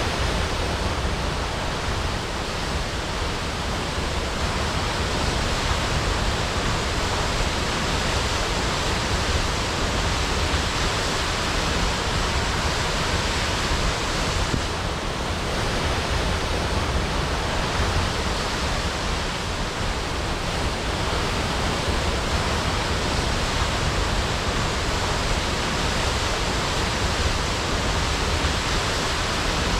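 Waterfall crashing in a steady, unbroken rush of falling water.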